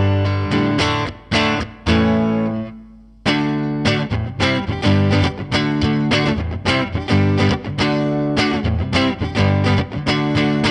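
Electric guitar, a Fender Stratocaster, played through a Line 6 Helix amp-and-cab model: picked chords, one left to ring out and fade about two seconds in, then a quick run of picked chords.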